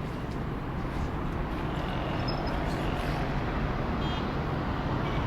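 Steady hum of distant city traffic heard from high above.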